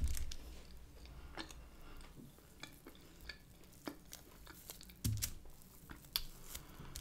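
Close-miked eating sounds: chewing, with soft clicks and crackles as a piece of charcoal-grilled chicken is pulled apart by hand, and two low bumps.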